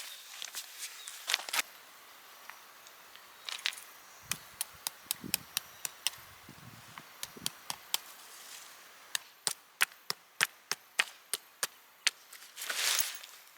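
Chopping on wood: runs of sharp knocks, about two a second, with a brief rustle near the end.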